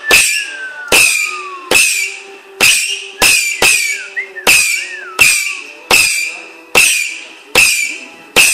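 Fireworks, a barrage cake firing a rapid series of loud bangs about one a second, each with a short crackling tail. A falling whistle follows the first bang, and wavering whistles come about four seconds in.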